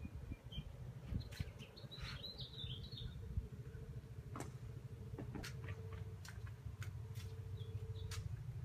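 Faint outdoor ambience: a bird chirps several times about two seconds in, over a low rumble, a faint steady hum and scattered light clicks.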